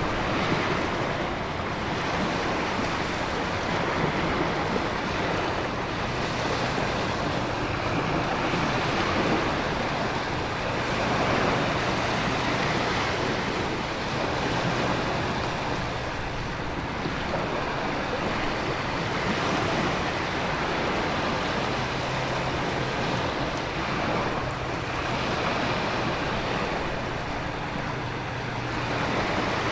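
Storm ambience: heavy rain and wind over ocean waves, swelling and easing every few seconds, with a steady low hum underneath.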